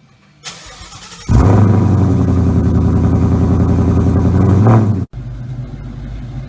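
Car engine running loud at steady revs, cutting off suddenly about five seconds in and giving way to a quieter engine sound.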